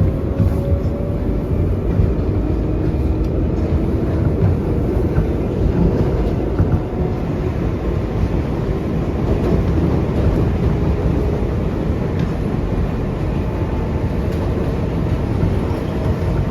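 Interior of an R142A subway car running between stations: a steady, loud rumble of wheels on rail, with a faint rising whine from the propulsion motors near the start.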